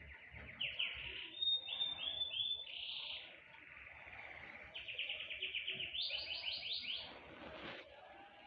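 Small songbirds singing: quick strings of repeated high chirps and short trills, with a brief lull in the middle.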